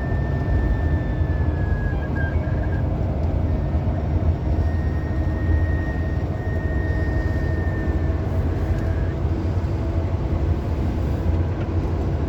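Car driving at highway speed, heard from inside the cabin: a steady low rumble of engine and tyre noise, with a thin high tone that holds for a few seconds, fades, then returns for a few seconds.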